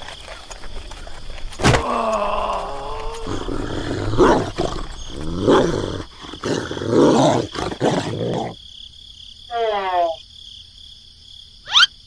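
Added animal sound effects: a wavering animal call, then several seconds of rough dog growling in bursts. Near the end come a short falling cry and a quick rising whistle.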